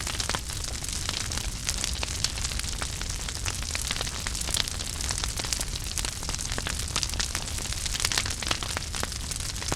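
Wood fire in a fireplace crackling steadily: many small sharp pops over a soft hiss and a low rumble of the flames.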